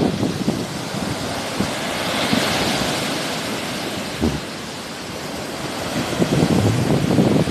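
Sea waves washing onto the shore, the hiss swelling and fading about halfway through, with wind buffeting the microphone in low rumbling gusts near the start and again near the end.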